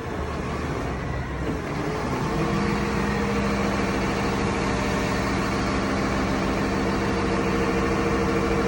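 Boom truck's engine running, with a steady pitched drone that comes in about two seconds in and holds level.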